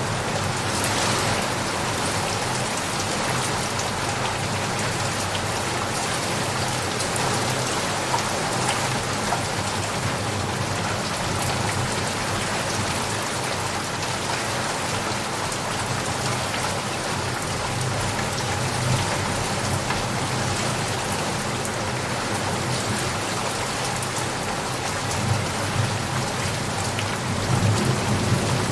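Steady, dense rain falling on surfaces. A low rumble of thunder swells near the end.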